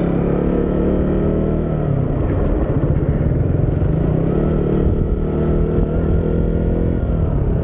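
Motorcycle engine running under way, its pitch dropping and rising with throttle and gear changes about two seconds in and again around four to five seconds.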